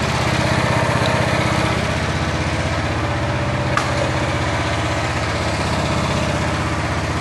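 Jansen MB 500's engine running steadily at an even speed. A single sharp click comes about four seconds in.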